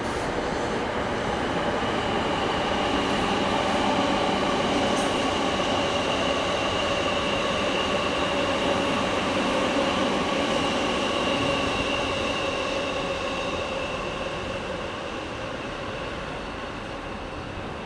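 Electric commuter train running past on the tracks: a steady rumble with a high whine over it, loudest in the middle and fading toward the end.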